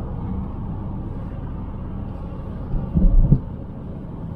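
Steady low rumble of a car's cabin while driving in traffic, with a brief thump about three seconds in.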